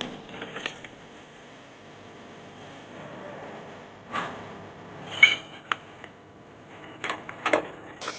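Cutlery and dishes clinking during a meal: a scatter of short, sharp clinks and knocks over a faint steady background, the loudest about five seconds in and several close together near the end.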